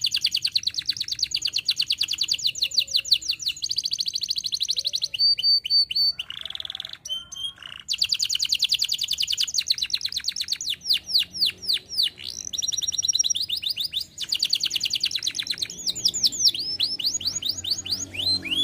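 Domestic canary singing in long, rapid trills of repeated notes, switching from one trilled phrase to another, with a looser break about a third of the way in.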